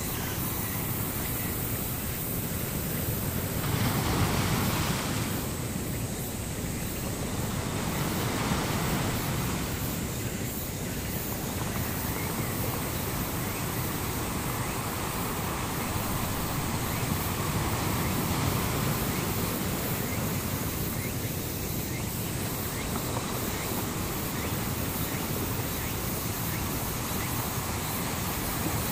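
Ocean surf: a steady rushing noise that swells and eases every few seconds.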